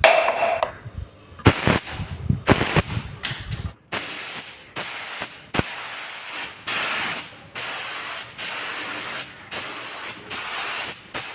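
Air-driven paint spray gun spraying in a series of hissing bursts, fed by a refrigerator compressor.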